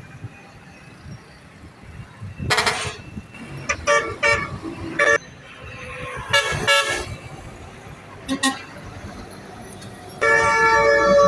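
Truck horn sounding in a series of short toots, then a loud, long blast starting near the end, over low traffic rumble.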